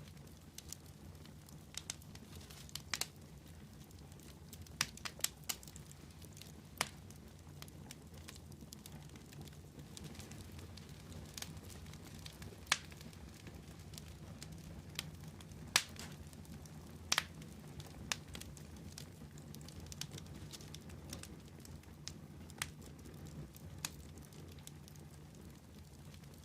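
Wood fire burning with a low steady rumble and irregular sharp crackles and pops from the burning wood.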